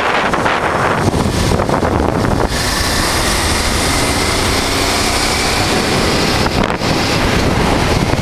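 A 1988 Honda Transalp's V-twin engine running while the motorcycle rides along, under heavy wind noise on the microphone.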